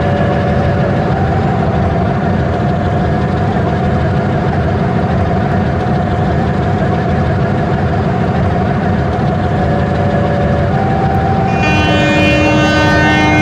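Train running with a loud, steady rumble, and its horn sounds once near the end, held for about two seconds.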